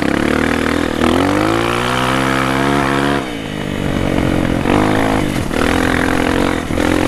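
Single-cylinder four-stroke dirt bike engine under throttle on a muddy trail: it revs up about a second in, holds high revs, drops off sharply a little after three seconds, then runs on at lower, uneven revs.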